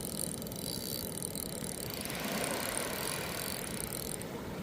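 A spinning fishing reel being cranked, giving a steady rattling whir as a fish is reeled in.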